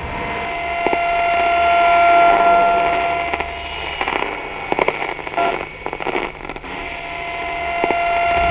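Radio-like static: a steady hiss with a few thin, steady whistling tones over it and scattered crackling clicks. The crackles come thickest in the middle, where the loudest whistle briefly drops out.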